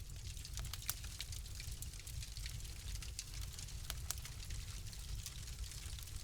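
Wood fire crackling in a fireplace: irregular sharp pops and crackles, a few louder than the rest, over a low steady rumble of the flames.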